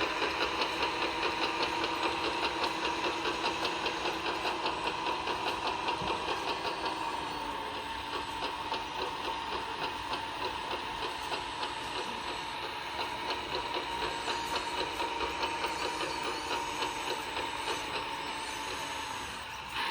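RC truck's electronic diesel-engine sound module idling through a small speaker, with an even knocking beat of about three pulses a second over a steady tone. It gets a little quieter about seven seconds in.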